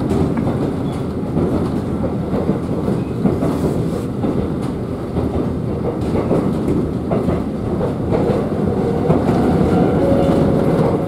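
Kōnan Line electric train running, heard from inside the passenger car: a steady rumble of wheels on the rails with clickety-clack over the rail joints.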